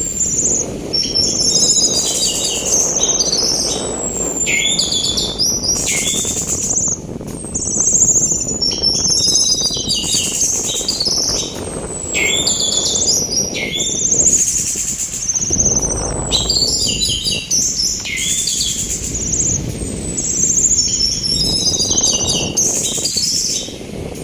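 Orange-headed thrush singing, repeating a phrase of quick varied notes about every two seconds, each opening with a high falling whistle. A steady rush of sea wind runs underneath.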